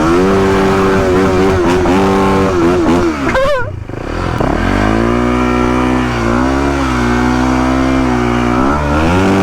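Motorcycle engine running at held revs, dropping away briefly about three and a half seconds in, then climbing back and holding steady again before easing off near the end.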